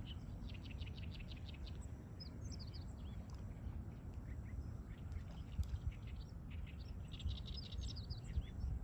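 Several small birds singing and chirping at once, in short calls and quick runs of repeated notes, over a steady low rumble.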